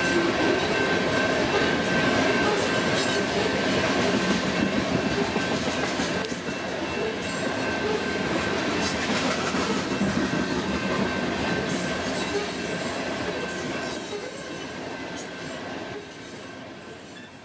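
Loaded coal cars of a freight train rolling past, a heavy rumble of steel wheels with scattered clacks over the rail and a steady high-pitched tone. The sound dies away near the end.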